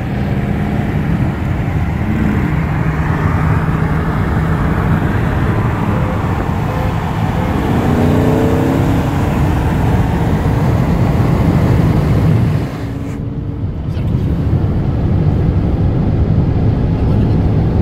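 Car engine at full throttle during a side-by-side acceleration run, heard from inside the cabin over heavy road and wind noise. The pitch rises part way through. The sound drops off for about a second near the end, then builds again.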